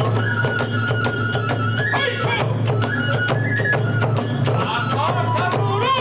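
Kagura hayashi ensemble playing: a fast, dense beat of drum and hand-cymbal strikes under a bamboo flute melody with bends and trills.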